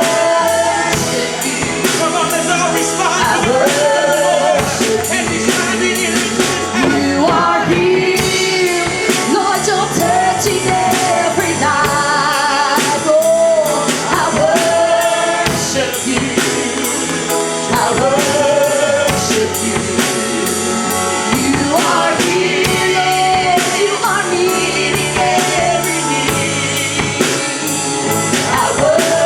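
Live church worship music: singers with vibrato backed by a band with a drum kit, playing continuously.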